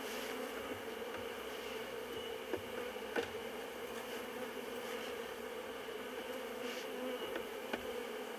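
Honeybee colony buzzing steadily in an opened hive, a low even hum. A few light clicks come from frames being slid apart with a hive tool.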